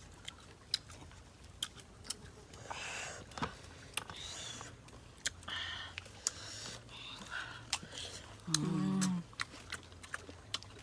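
Close-up mouth sounds of eating raw fruit: irregular crisp clicks of biting and chewing with wet smacking, and a short hummed "mmm" about two-thirds of the way through.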